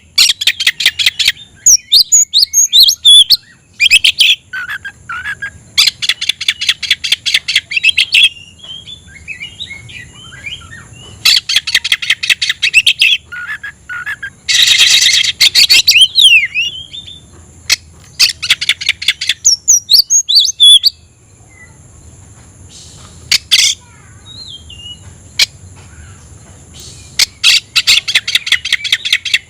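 Oriental magpie-robin (kacer) singing: loud bouts of rapid, harsh repeated notes alternating with varied, quicker whistled phrases.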